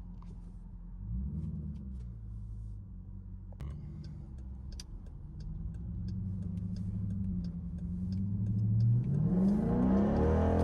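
Straight-piped Dodge Durango exhaust running low and steady, with a brief blip of revs about a second in, then accelerating near the end, the pitch rising and the exhaust getting louder.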